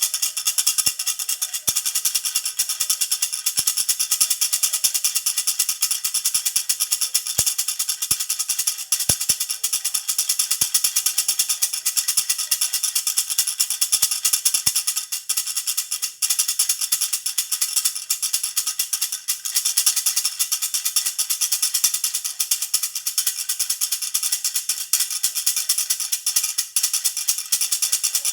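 Baby rattle (jhunjhuna) shaken continuously, a fast, steady metallic jingling with bright ringing tones.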